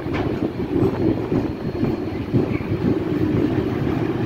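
Vintage passenger carriages of a steam-hauled heritage train rolling past on the rails. A steady low rumble of wheels on track, with occasional knocks.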